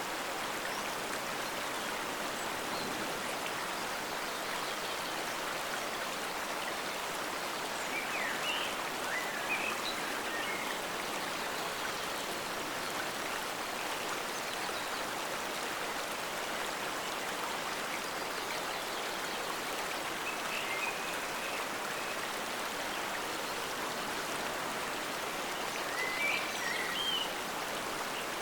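Forest stream flowing steadily, a continuous even rush of water. A few brief higher notes rise above it around a third of the way in, about two-thirds in and near the end.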